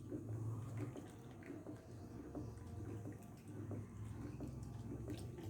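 Faint sloshing and dripping of liquid, with a few light knocks.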